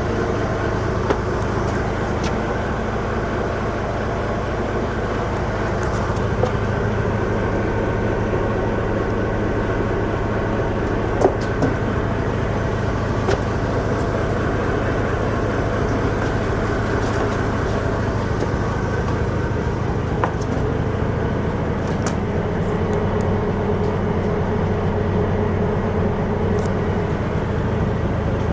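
Engine of a 49-foot Seike-built cabin fishing boat running steadily, a constant low drone with a few light clicks here and there.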